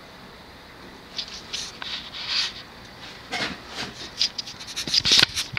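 Vintage Fasco Vanity Fair ceiling fan running on medium with a faint steady hum. About a second in, irregular scrapes and clicks begin, getting louder and more frequent toward the end.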